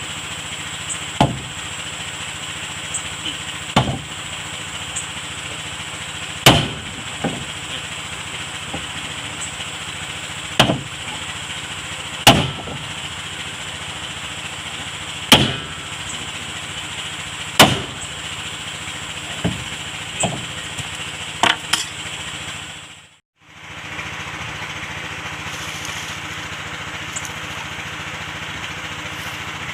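Hammer blows on the wood of a wooden boat under construction, single sharp strikes coming irregularly every two to three seconds, over a steady engine-like hum. The sound drops out briefly about two-thirds of the way through.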